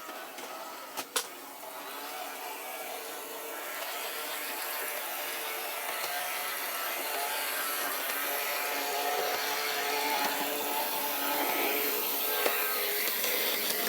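Bachmann HO-scale Gandy Dancer model hand car running along its track: the small electric motor and gears whirr steadily, growing louder throughout. A single sharp click about a second in.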